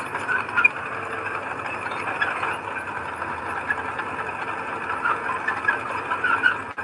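Heavy earthmoving machinery running steadily, an engine with rattling and brief sharp metallic squeaks over it; it cuts off suddenly at the end.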